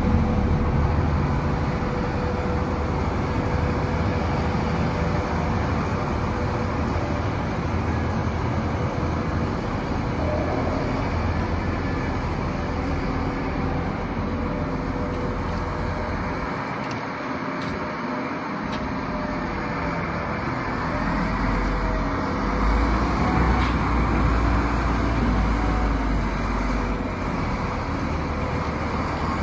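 Large diesel forklift engine running steadily with a low rumble, which dips briefly a little past the middle and comes back stronger near the end.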